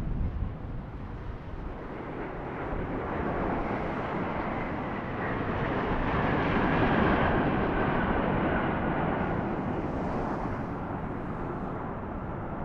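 Airbus A350-900 jet landing, its twin Rolls-Royce Trent XWB engines giving a steady roar that builds to a peak about seven seconds in and then eases off, with a faint high whine near the peak.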